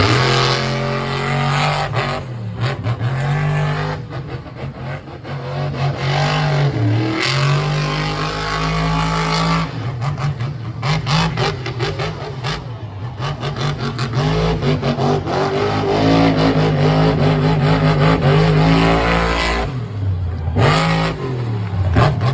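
A monster truck engine revving hard, its pitch climbing and dropping off again and again as the throttle is worked. Sharp clattering knocks come through about halfway in.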